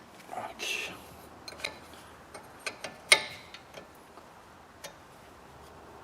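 Metal wrench clinking and clicking as it is fitted onto a brake caliper bolt and turned to tighten it: a short scrape, then a run of irregular sharp clicks, the loudest about three seconds in.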